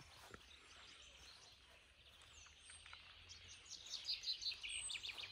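Small birds chirping and calling, faint, a few short high notes at a time, then a quicker run of chirps in the last second or so.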